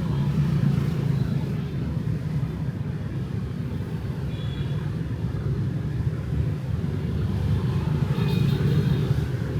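Night street traffic of motorbikes and cars: a steady low rumble of engines and tyres going by, with a couple of faint short high-pitched tones about four seconds in and near the end.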